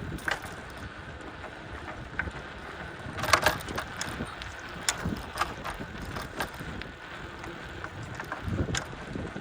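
Wind buffeting the microphone on a moving bicycle, with scattered clicks and rattles from the bike jolting over a rough trail, including a cluster of louder knocks about three seconds in.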